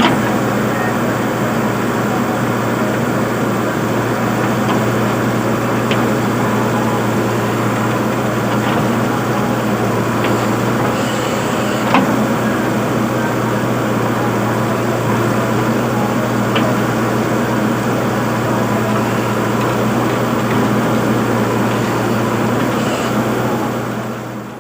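A motor running steadily with a constant low hum, a few light clicks scattered through it, fading away near the end.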